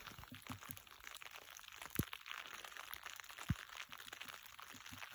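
Packed snow crunching and crackling in an irregular run of small sounds, with two dull thumps about two and three and a half seconds in.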